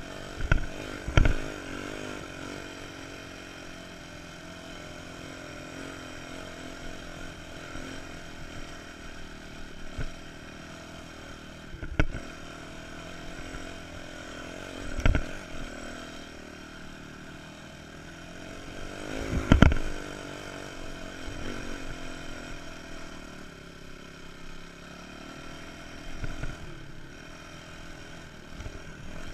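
Dirt bike engine running steadily under load as it climbs the sand. Several sharp knocks stand out over the engine, the loudest about two-thirds of the way through.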